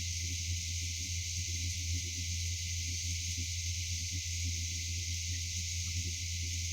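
Steady low hum with a constant high hiss, unchanging throughout, with no distinct events.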